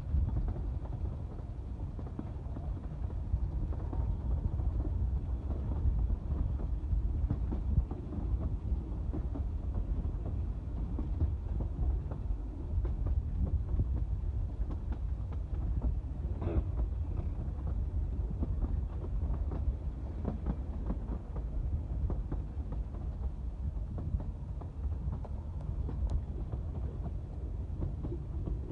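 Narrow-gauge Talyllyn Railway train carriage running along the track, heard from the carriage window: a steady low rumble with a constant clatter of wheels over the rails.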